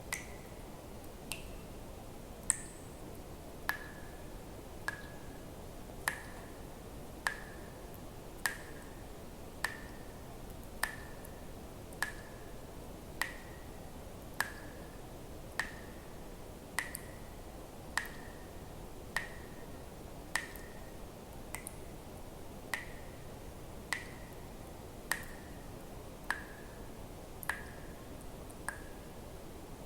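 Water drops falling one at a time at an even pace, a little under one a second, each a sharp click with a short plinking tone that dips slightly in pitch. A steady faint hiss lies underneath.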